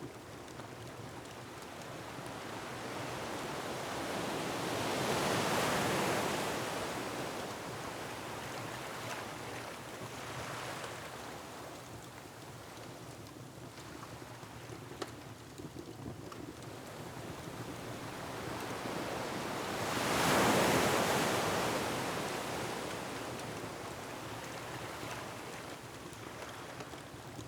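Ocean waves surging and breaking on a rocky shore, two large swells building and falling away about six seconds in and again about twenty seconds in, over a steady wash of surf and wind. A few faint, sharp crackles from a wood fire come through in the lull between them.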